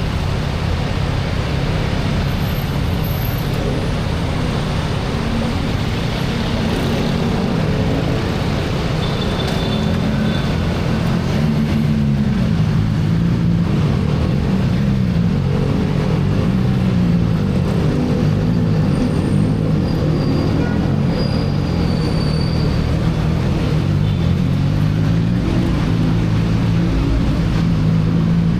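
CFMoto 675NK's inline-three engine on its stock exhaust, ridden with its note rising and falling repeatedly with throttle and gear changes, over wind and road noise.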